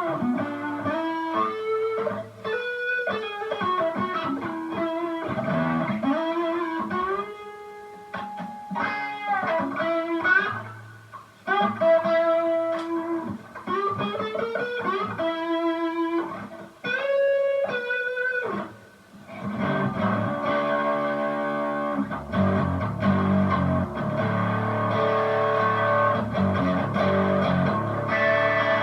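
Distorted electric guitar, a Strat-style guitar played through a Harley Benton American Sound amp-sim distortion pedal with its voice and drive turned all the way up, into a mini amp head and Vox cab. It plays a lead line of single notes with string bends, then about twenty seconds in it switches to rhythm chords.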